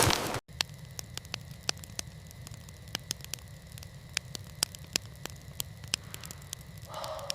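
Sparse, irregular sharp crackles and pops over a low steady rumble, after a louder rushing noise cuts off abruptly about half a second in.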